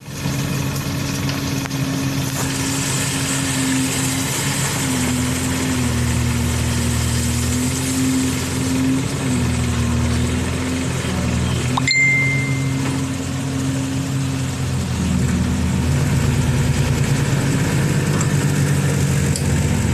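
Backhoe's diesel engine running steadily as the machine moves, its pitch wavering and dropping to a lower note about three-quarters of the way through. About midway there is a sharp click with a brief high-pitched tone.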